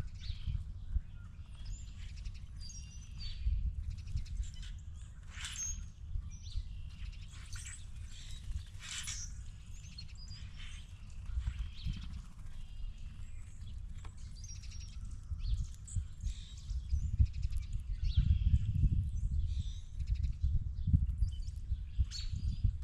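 Birds chirping and calling in short scattered notes over a steady low rumble that grows louder in the last few seconds.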